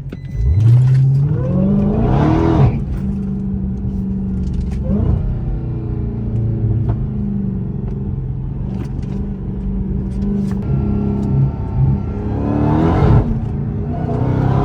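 Dodge Charger Hellcat Redeye's supercharged 6.2-litre V8 exhaust with its mid mufflers deleted, on a drive: it revs up just after the start, about two seconds in and again near the end, with steady cruising in between.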